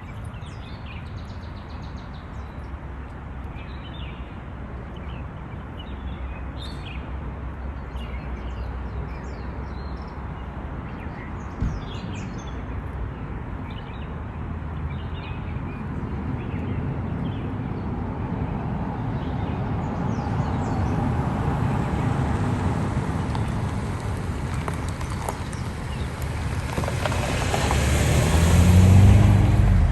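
Birds chirping in short scattered calls over a steady low rumble. A vehicle grows steadily louder from about halfway through and passes close by near the end.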